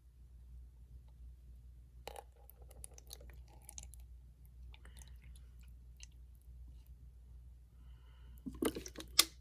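Small clicks and rustles of art supplies being handled over a low steady hum, with a short cluster of louder clicks near the end.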